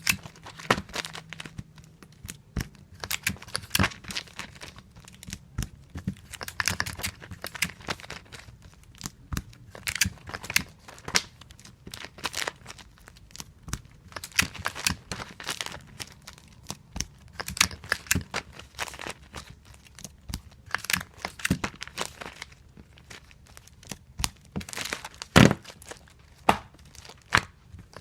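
Tape being pulled from a tape dispenser and torn off against its cutter, again and again, as comic books are taped. It comes as an irregular run of sharp clicks and short rasps, with one louder snap near the end.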